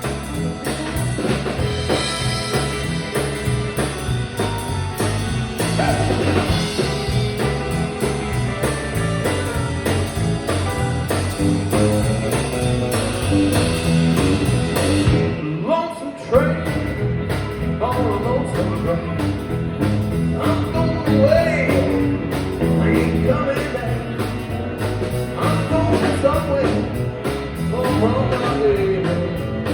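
Blues-style rock and roll band music with a steady beat; the sound cuts out for a moment about halfway through, then carries on.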